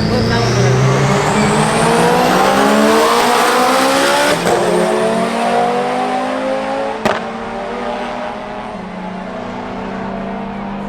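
A car engine accelerating hard, its pitch climbing steadily, with what sounds like a gear change about four seconds in and a further climb, then settling to a quieter steady drone. A single sharp click comes about seven seconds in.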